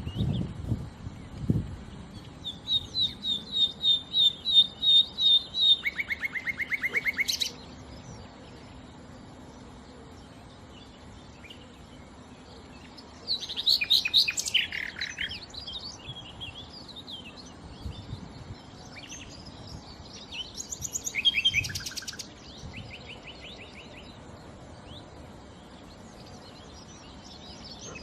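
Nightingale singing in separate phrases with pauses between: a run of evenly repeated whistled notes that swells in loudness, then a fast lower trill, and later more varied, twisting phrases.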